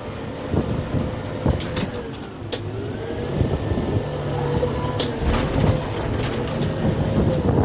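Kubota M6-141 tractor's diesel engine working hard under load while the grapple pushes and pulls at a tree. Its pitch sags about two and a half seconds in and then climbs back. A few sharp cracks or knocks come through over the engine.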